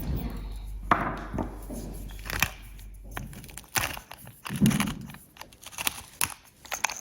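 A run of short, sharp clicks and knocks, as of objects being handled, over a low hum that stops about three seconds in.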